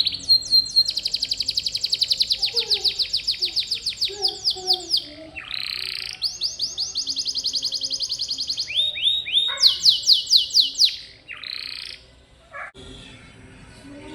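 Domestic canary singing: long trills of rapidly repeated high notes, about ten a second, in several phrases with brief changes of note. The song stops near the end.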